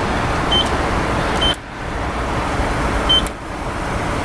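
Three short high beeps from the car wash payment kiosk's keypad as keys are pressed, over the steady rumble of the idling car.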